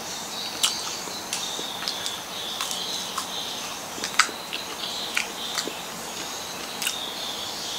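Close-up crunchy chewing of a peanut-and-caramel crisp bar: irregular sharp crunches every fraction of a second to a second, over a steady high-pitched chirring of insects.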